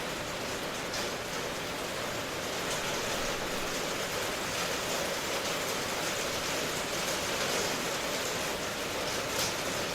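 Steady rainfall ambience: an even hiss of rain with faint scattered drop ticks.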